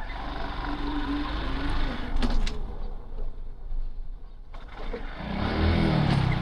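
A motor vehicle running on the road with a steady low rumble, a couple of short clicks about two seconds in, and a wavering pitched sound near the end.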